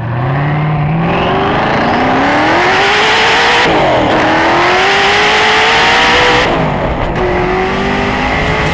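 High-performance car engine accelerating hard, its pitch climbing through the revs. It drops abruptly at an upshift about four seconds in, climbs again, and shifts once more around seven seconds.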